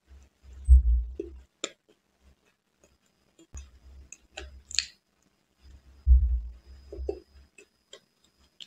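Close-miked chewing and wet mouth sounds of a person eating a soft layered sponge cake, with irregular low thuds and a few sharp clicks.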